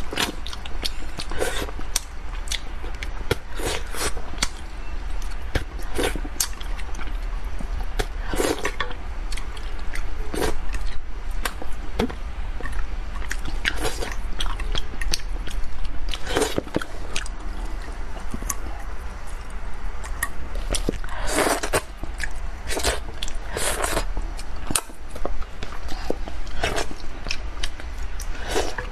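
Close-miked chewing and biting of spicy braised carp, with many short clicks and smacks, over a steady low hum.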